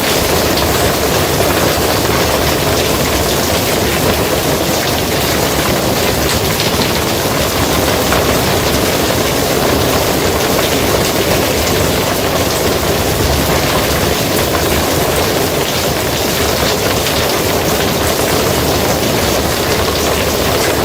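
Rain falling steadily on a barn roof, a dense, even hiss with a low rumble underneath.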